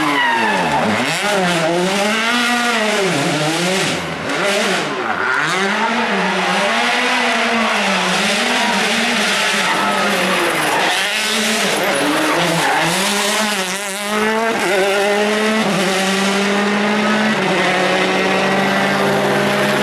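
Rally car engine revved up and down over and over, its pitch rising and falling about once a second, with tyres skidding and squealing. In the last few seconds it holds steadier revs that step up and down in pitch.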